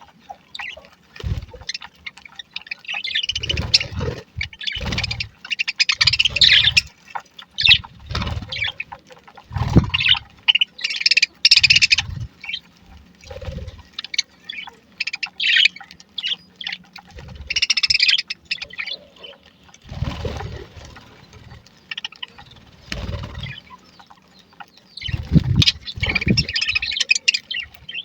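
A flock of budgerigars chirping and chattering in bursts of busy high twitter, with intermittent short low thumps or rumbles in between.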